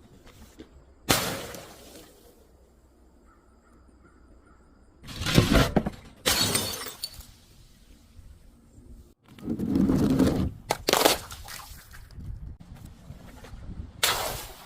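Glass smashing and shattering, about six separate crashes with quieter gaps between them.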